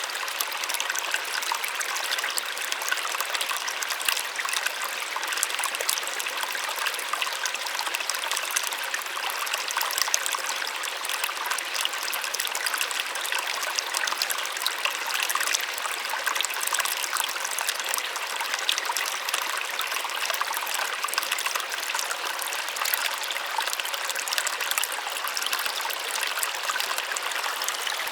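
Small waterfall splashing steadily, a continuous bright rush of falling water with fine droplet splashes and little low rumble.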